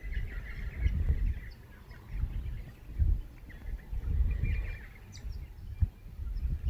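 Irregular gusts of wind rumbling on the microphone, with birds chirping faintly in the background.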